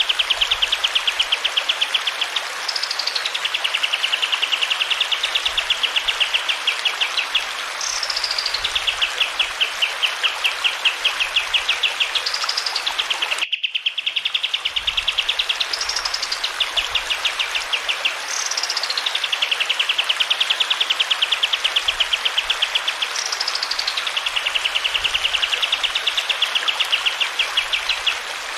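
Kapas tembak songbird singing a long, fast rolling trill, broken every few seconds by a sharp note that sweeps up and falls back, over a steady hiss of running water. The song cuts off abruptly about halfway through and starts again, as in a looped recording.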